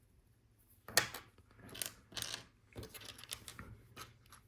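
Plastic LEGO bricks being handled and pressed together. There is a sharp click about a second in, then softer rustling and a scatter of light ticks.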